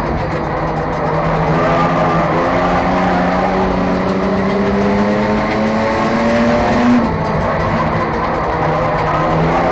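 Enduro race car engine running hard on track, its pitch climbing slowly for several seconds, then dropping sharply about seven seconds in as the throttle comes off, over a steady rush of tyre and road noise.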